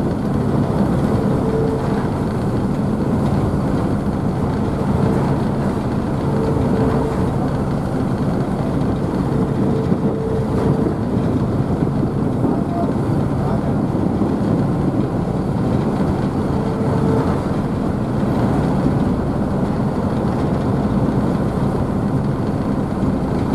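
Car ferry's engines running with a steady low hum over the rushing wash and spray of the wake behind the stern.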